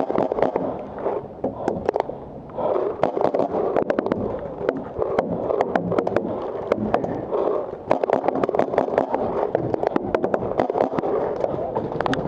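Paintball markers firing, many rapid, irregular pops overlapping from several guns, over a steady background noise.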